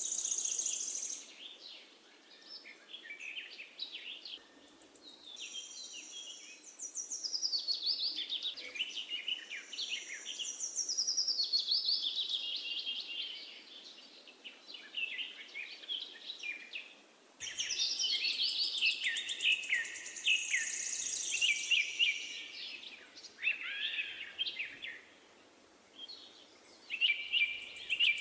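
Birdsong: several birds chirping and twittering in quick, high runs of notes, in spells with short lulls, over a faint steady hiss.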